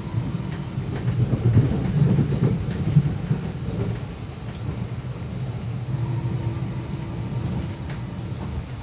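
Electric passenger train running, heard from inside the carriage: a steady low rumble of wheels on the track with a few faint clicks. The rumble swells louder for a couple of seconds about a second in, and a faint steady hum comes in near the end.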